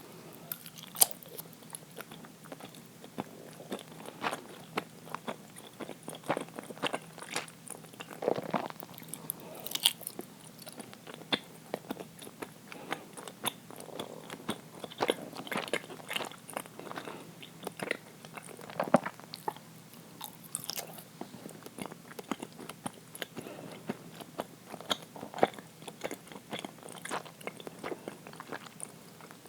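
A person chewing and biting soft, sticky uiro (Japanese steamed rice-flour jelly) close to the microphone: irregular mouth clicks at an uneven pace.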